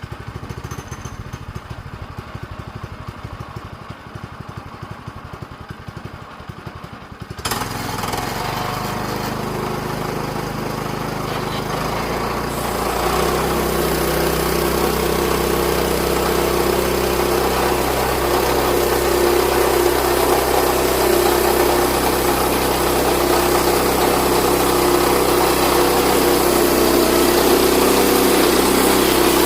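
Sawmill engine running: rough and low at first, then about seven seconds in a click and it picks up to a steady note, stepping up again in speed a few seconds later and running steadily at the higher speed.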